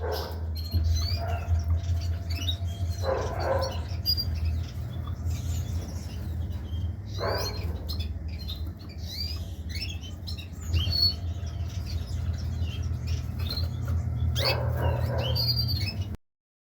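Many small cage birds, canaries and budgerigars among them, chirping and twittering in quick short notes, with a few louder, harsher calls now and then. A steady low hum runs underneath, and everything cuts off suddenly near the end.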